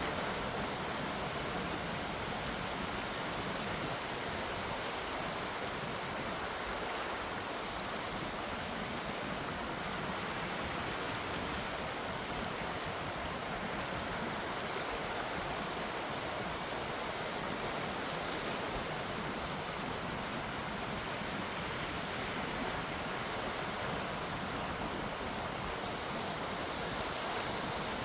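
Gentle sea waves washing, heard as a steady, even hiss of water without distinct breaking surges.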